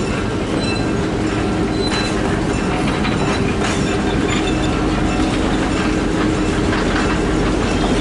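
Train running on rail with a steady rumble and a few faint clicks from the wheels.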